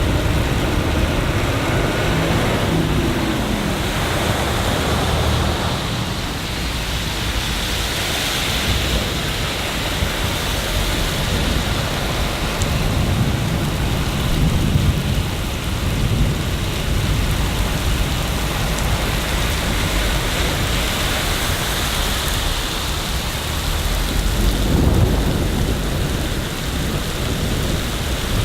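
Steady heavy rain, with low rumbles of thunder that swell near the start and again near the end.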